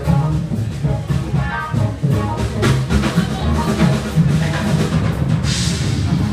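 Live band music with a drum kit keeping the beat, loud, with a cymbal crash about five and a half seconds in.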